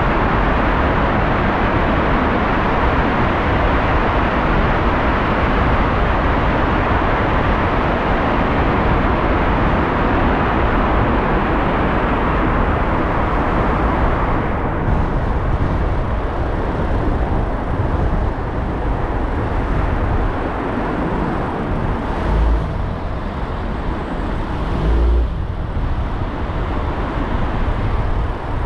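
Car driving on city streets: steady road and tyre noise, somewhat softer after about halfway, with two short low thumps near the end.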